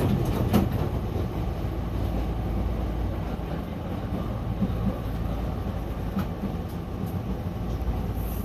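Steady low rumble of a Hankyu local train, heard from on board, with a couple of short clicks about half a second in.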